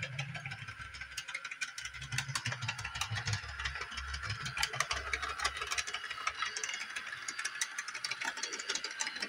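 Bachmann Doodlebug model railcar running on the track, a fast irregular stream of small clicks and rattles over a low motor hum that comes and goes. The owner thinks the clicking may come from the tight 18-inch radius curve.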